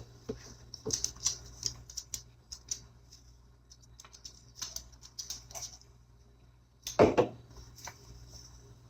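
Faint irregular clicks and taps, with one brief louder sound about seven seconds in.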